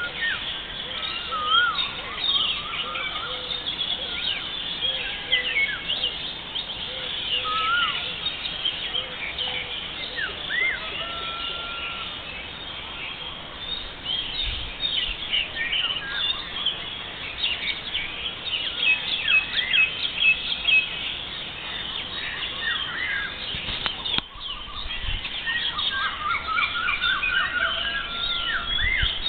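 A chorus of several songbirds singing and chirping together, many short overlapping chirps and whistles with no pause, and a run of quick repeated rising notes near the end.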